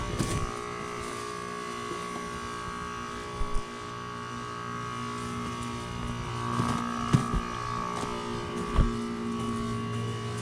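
Outdoor unit of a 2017 Goodman GSZ14 2-ton heat pump running with a steady hum and a higher whine, broken by a few short knocks.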